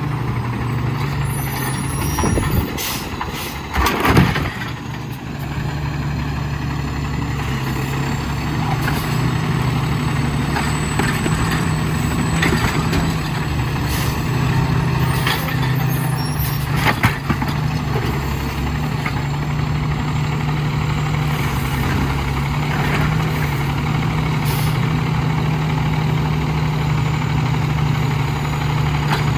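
Diesel engine of an Autocar WXLL garbage truck running steadily, with a few sharp knocks about three to four seconds in.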